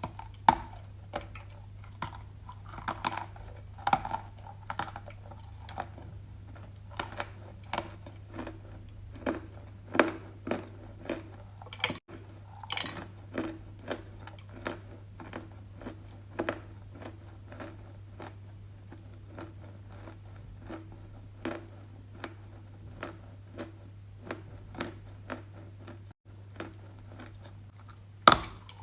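Dry edible clay being chewed: irregular crisp crunches throughout, over a steady low hum.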